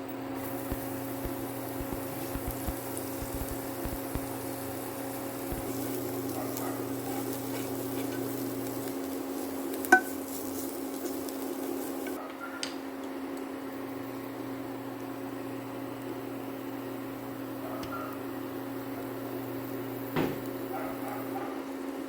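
Kitchen sounds: a steady appliance hum under scattered light clinks of dishes and utensils. One sharp clink about ten seconds in is the loudest sound, and another comes near the end.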